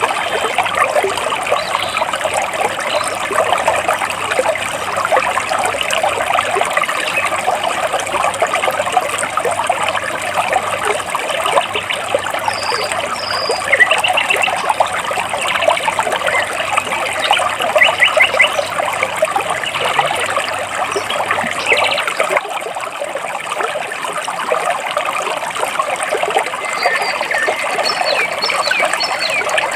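Stream water flowing and splashing between large rocks, a steady babble, with small birds chirping now and then, including a few short trilled calls midway through.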